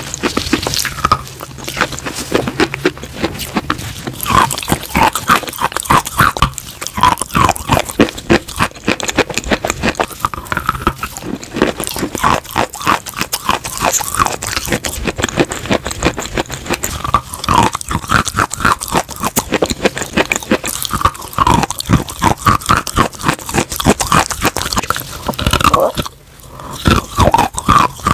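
Close-miked crunching and chewing of chalk and clay with a creamy paste: a dense run of sharp crackling bites and wet mouth sounds, pausing briefly near the end.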